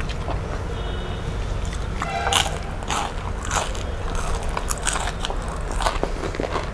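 Close-miked chewing and wet lip-smacking, with a run of short sharp mouth clicks that grows busier after about two seconds, over a steady low hum.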